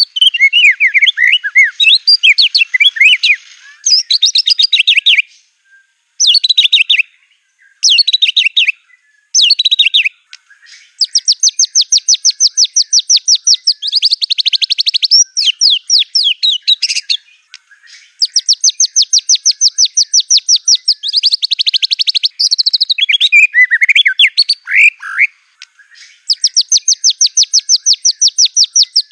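White-rumped shama (murai batu) singing loudly, its song filled with mimicked phrases of canaries and other birds. Quick sweeping whistled phrases broken by short pauses give way to long, rapid trills of fast-repeated notes, with another run of sweeping notes shortly before a final trill.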